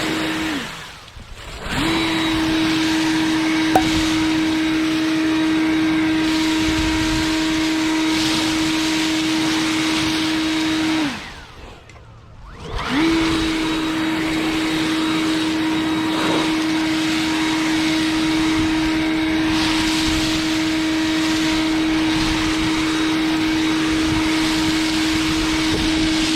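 Ryobi leaf blower running at a steady whine. It is switched off twice, just after the start and around eleven seconds in, winding down in pitch each time, and starts again a second or two later.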